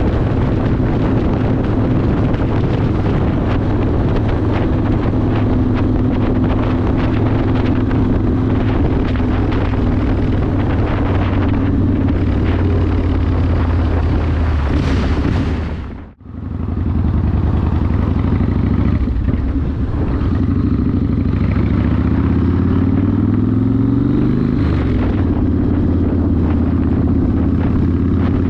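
Yamaha Warrior 1700's V-twin engine through a custom exhaust, running at cruising speed under a rush of wind. About halfway the sound cuts out for a moment; a few seconds later the engine pitch climbs steadily under acceleration, then drops back.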